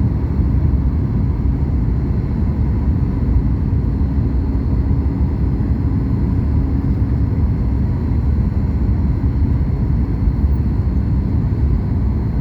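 Cabin noise aboard a Boeing 737 MAX 8: a steady low rumble of engines and airflow with a faint constant hum.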